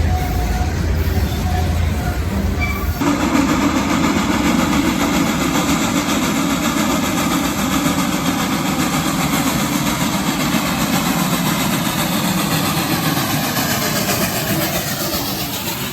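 Train noise: a heavy low engine rumble that changes abruptly about three seconds in to a steady, loud rushing run of a passing train, beginning to fade near the end.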